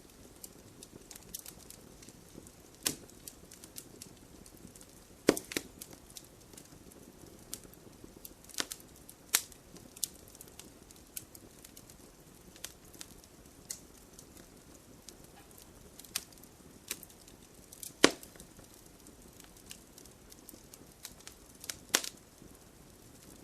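Wood fire crackling: a low steady hiss with irregular sharp pops and snaps, a few loud ones standing out.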